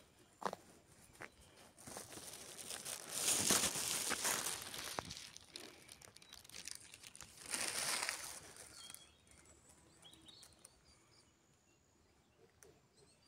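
Rustling, crinkling noise in two longer spells, with a few sharp clicks in between.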